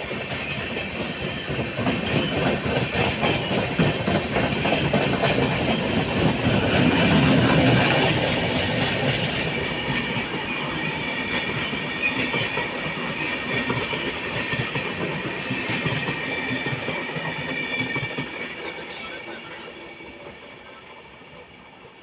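Indian Railways passenger train passing at speed, its coach wheels clattering in quick succession over the rail joints. Loudest about seven or eight seconds in, then fading away over the last few seconds as the last coaches pull off.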